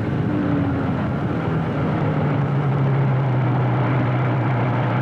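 Motorcycle engine running steadily under way, with a constant road and wind rush.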